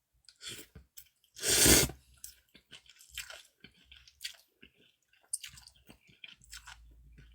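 Close-miked mouth sounds of a person eating cold noodles and dumplings: chewing with small wet clicks and smacks. One louder, noisy mouth sound lasts about half a second, about a second and a half in.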